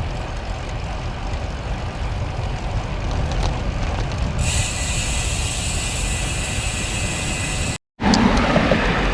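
Wind rumbling over the microphone of a moving bicycle, with road traffic noise. About four and a half seconds in, a steady hiss with faint high whines joins. The sound cuts out for an instant just before the end.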